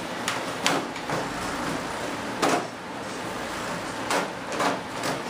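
Wooden bulkheads being slid and pushed into a composite RC jet fuselage by hand: about five short scrapes and rubs, the parts a tight fit.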